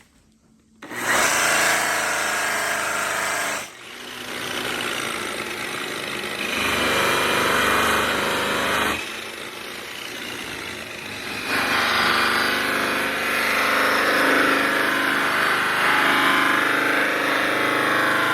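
Electric buffer running as it polishes bare aluminium with rouge compound. The motor noise starts about a second in and shifts in level and tone a few times.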